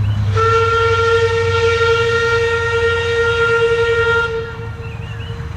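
Steam whistle of QR C17-class locomotive 974 sounding one long blast of about four seconds on a single steady note, then trailing off, over a low rumble.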